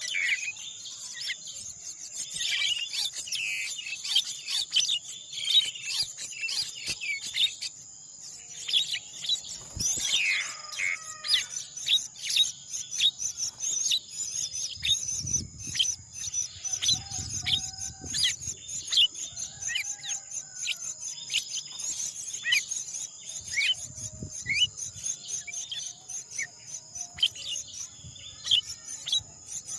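Birds chirping: many short, quick high chirps, some falling in pitch, with a few lower warbled calls between them, over a steady high-pitched insect drone.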